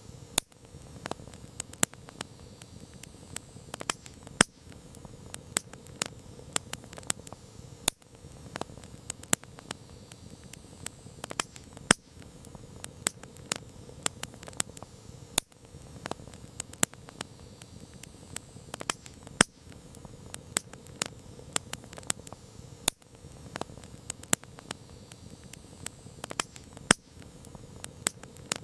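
Wood campfire crackling: frequent irregular sharp pops and snaps over a steady low hiss of burning.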